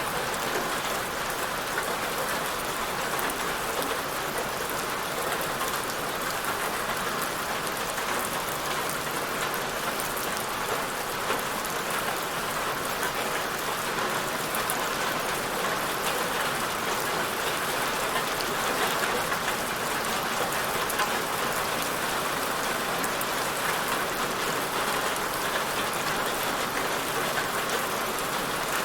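Steady rain falling on a surface, an even hiss dotted with many fine drop impacts.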